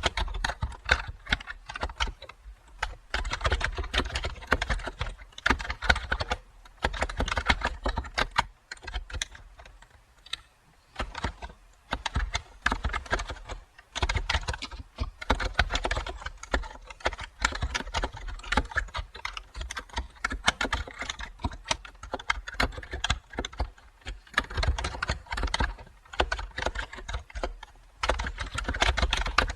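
Typing on a computer keyboard: runs of rapid key clicks in bursts with brief pauses, and a longer lull about nine to twelve seconds in.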